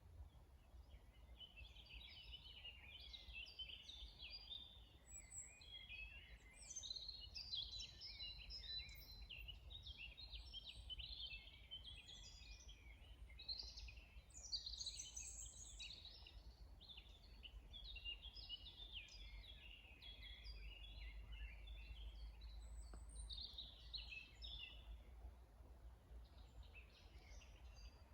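Several songbirds singing at once, a dense chorus of quick chirps and trills, faint, over a low background rumble.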